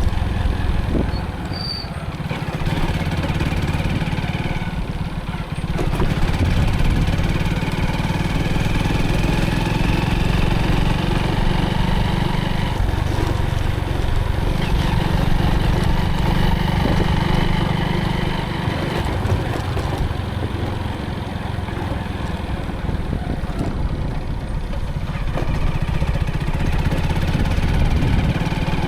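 Motorcycle engine running continuously while being ridden, with a steady low rumble and a brief drop in level about two seconds in.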